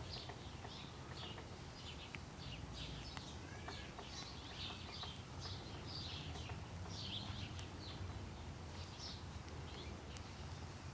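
Small birds chirping, with short high chirps repeating a couple of times a second, over a faint steady low hum and a few faint clicks.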